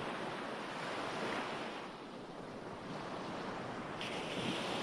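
Recorded ocean waves: steady surf washing in and out, swelling and falling slowly, easing off about two seconds in and building again near the end.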